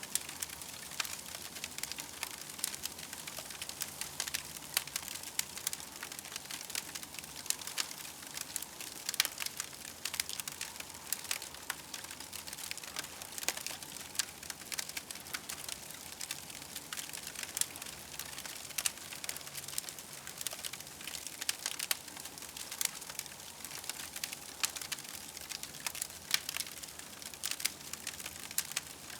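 Campfire crackling steadily, with many irregular sharp pops and snaps over a soft hiss.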